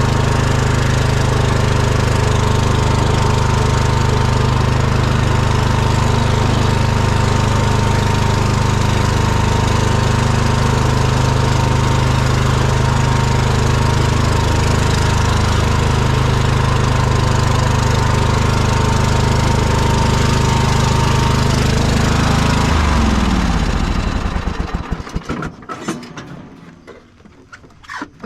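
Lawn mower engine running steadily, then switched off about 23 seconds in, its pitch falling as it runs down to a stop.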